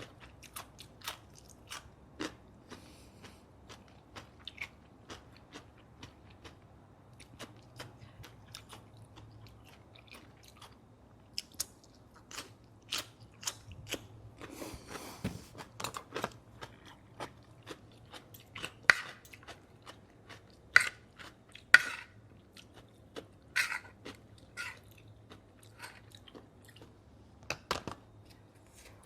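Close-miked chewing and crunching of grilled pork neck salad with rice: a steady run of short wet mouth clicks and smacks. The clicks grow louder and sharper in the second half.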